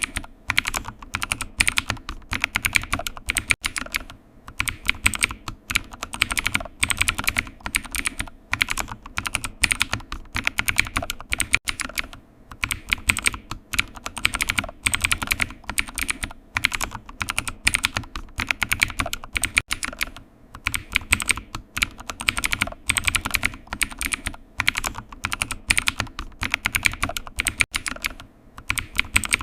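Computer keyboard typing: a fast run of key clicks in bursts, with short pauses every second or two.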